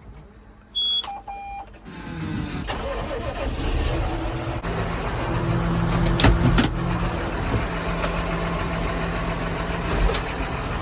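John Deere 6190R tractor's diesel engine starting about two seconds in, after two short beeps from the cab, then idling steadily, with a couple of sharp knocks along the way.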